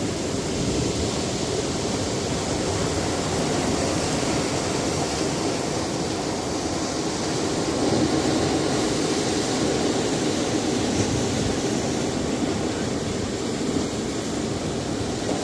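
Sea surf washing against a rocky shore, a steady rush of waves that swells a little about halfway through.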